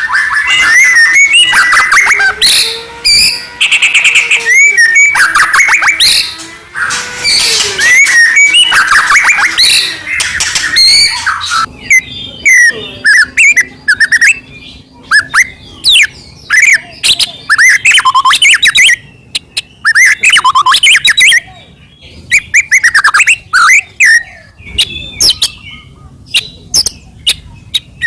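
White-rumped shama in full song. For about the first twelve seconds it pours out a loud, dense run of whistles, fast trills and buzzy notes. After that come sparser whistled phrases with short pauses and sharp ticks between them.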